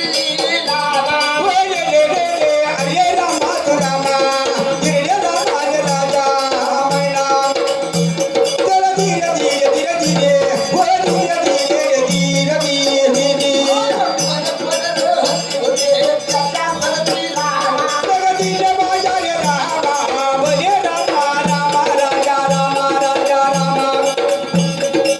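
Marathi Kalgi shahiri folk music: a steady held drone under a wavering melody, with a regular drum beat about once a second and shaken percussion.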